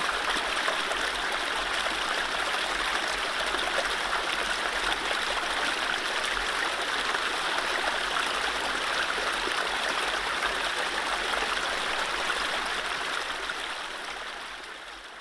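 Mountain stream running over low rapids: a steady rush of flowing water that fades out over the last couple of seconds.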